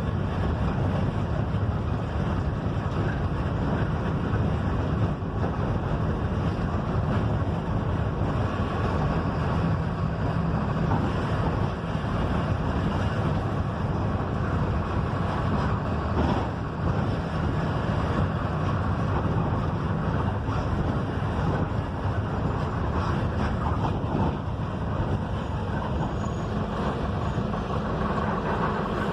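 Mercedes-Benz OF-1721 bus running steadily along the road: an even engine drone with tyre and road noise.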